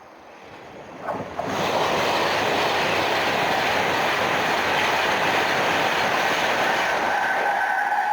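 A train passing close by at speed: the rush of noise swells up sharply about a second and a half in, stays steady and loud, then starts to fade near the end.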